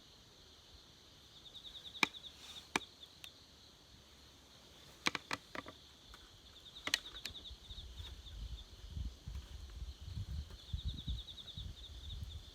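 Insects trilling in short pulsed bursts three times over a steady high insect hum, with about six sharp clicks or snaps, most of them in the first half, and a low rumble in the second half.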